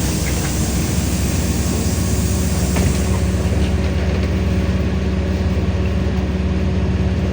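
LiAZ-5292 city bus heard from inside the passenger cabin while it is moving: the engine hums steadily under road and body noise. A faint click comes about three seconds in.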